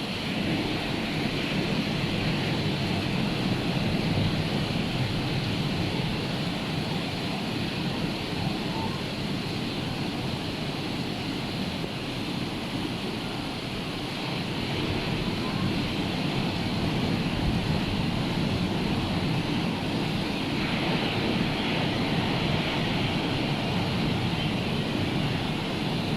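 Rough sea surf breaking continuously, a steady wash of noise that swells and eases slowly; the sea is churned up by a hurricane.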